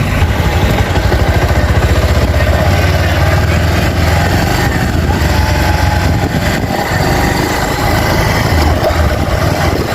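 Motorcycle engine running steadily as the bike moves off and rides on, a continuous low drone.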